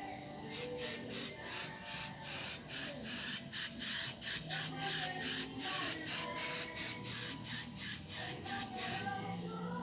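Rhythmic back-and-forth rubbing or scraping strokes on the refrigerator's metal body, about three a second, as in sanding or surface prep for painting. Faint music plays underneath.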